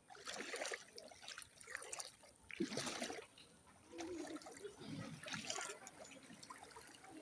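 Water splashing and sloshing in short irregular bursts, about one a second.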